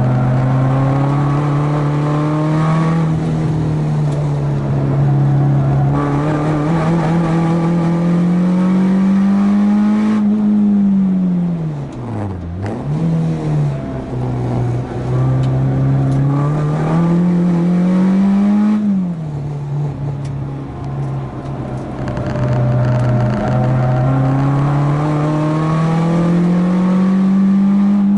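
Four-cylinder engine of a track-day hatchback pulling hard under load, its pitch climbing slowly through the revs. About ten seconds in it falls steeply, with short rises in between as the gears come down, then it climbs again. It eases off around two-thirds of the way through and pulls again near the end.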